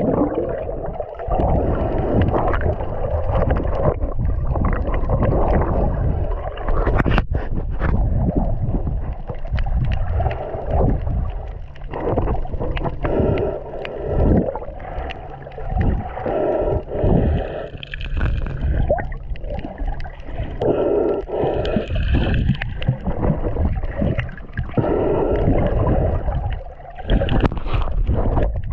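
Water sloshing and gurgling right at the microphone over a constant low rumble, surging and easing unevenly.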